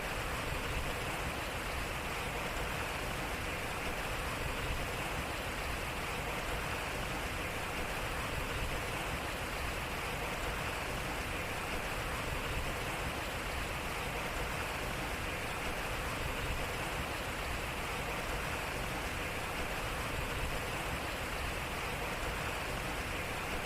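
Water running and splashing off a turning wooden water wheel, a steady even rush.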